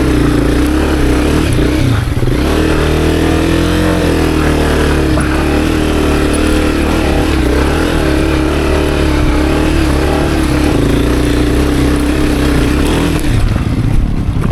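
Honda CRF250F dirt bike's single-cylinder four-stroke engine running under load on a climb, its pitch wavering up and down with the throttle and dipping briefly about two seconds in. Near the end the engine sound thins to a lower, rougher beat.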